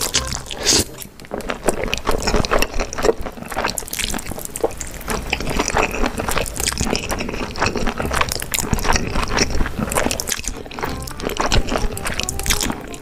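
Close-miked wet slurping and chewing of glass noodles in a thick spicy sauce, many short smacking clicks one after another, over background music.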